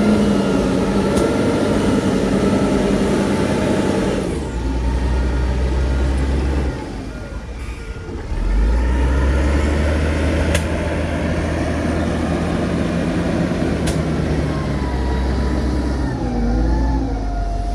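Heavy diesel earthmoving machinery running under load, the engine note shifting a few seconds in and dipping briefly before picking up again.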